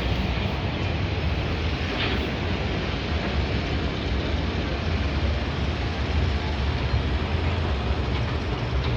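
Steady outdoor background rumble with an even hiss over it, strongest in the low end.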